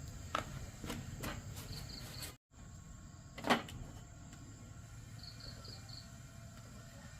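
A few light knocks and clicks of objects being handled, with a louder knock about three and a half seconds in. The sound cuts out for a moment partway through. Faint high chirps and a steady high tone sit behind.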